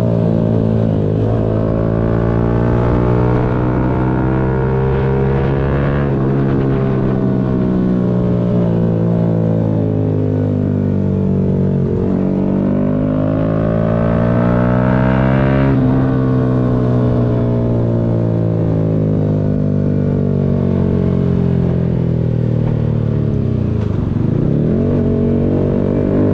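Yamaha MT-125's 125 cc single-cylinder four-stroke engine under way, its pitch climbing and dropping several times as the bike speeds up and slows.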